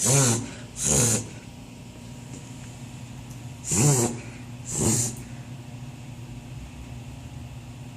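Beagle reverse-sneezing: four forceful, noisy gasping inhalations in two pairs, each pair about a second apart, with a pause of nearly three seconds between the pairs.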